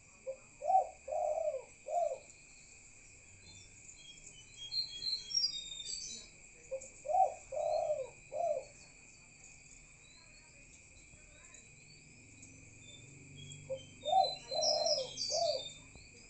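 Spotted dove cooing: three phrases of about four low notes each, roughly six seconds apart, over a steady high trilling of crickets.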